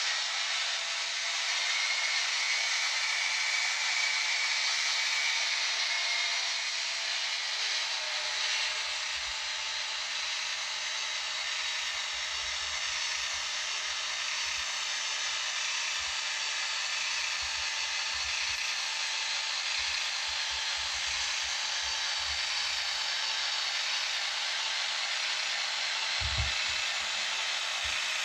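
N-scale model train of a locomotive and tank wagons running on the track: a steady whirring hiss of the small motor and wheels. Faint low knocks come and go, with a single low thump near the end.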